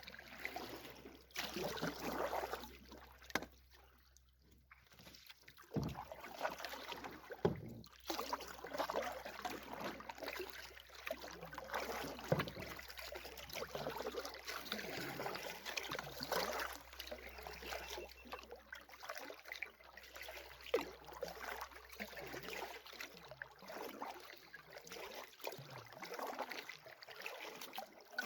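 Canoe being paddled through water: irregular splashing and trickling from the paddle and hull, with many small crackling ticks.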